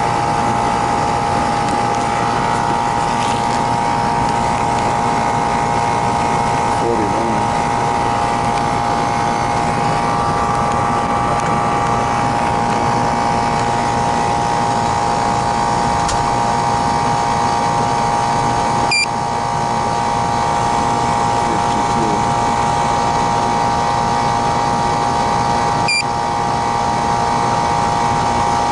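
Air-conditioning system running steadily: a constant machine drone with a steady whine over it. Twice, late on, a short sharp click with a brief dip in level.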